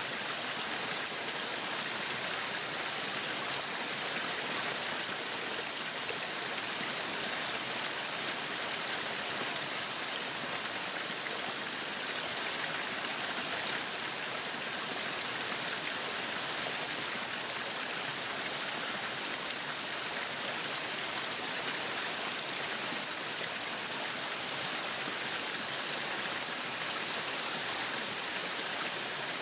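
Meat sizzling on a yakiniku grill: a steady, even hiss of fat and juices spitting on the hot grill.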